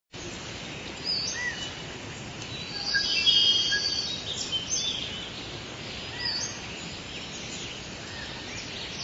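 Birds chirping and calling, short whistles and quick trills over a steady background hiss, busiest with overlapping calls about three to four seconds in.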